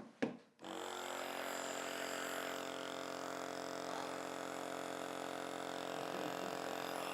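Compressor nebuliser switched on: its motor starts about half a second in and runs with a steady hum and an airy hiss.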